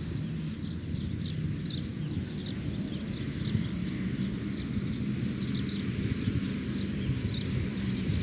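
Many short, high bird chirps repeating throughout, over a steady low rumble of outdoor background noise.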